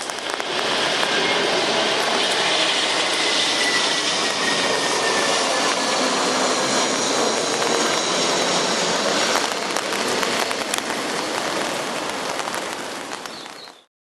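Airbus A321-231's IAE V2500 turbofans passing low on final approach: a loud, steady rush of jet noise with a faint whine falling in pitch over the first few seconds. It eases off slightly near the end, then cuts off suddenly.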